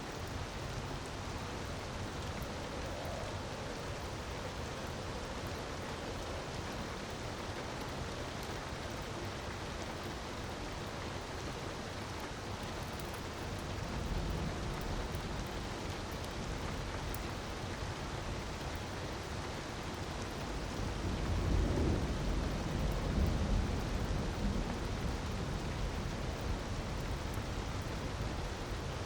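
Ambience mix of steady rushing water and a crackling fire. Two low rumbles swell up, a short one about halfway and a longer, louder one about three-quarters through.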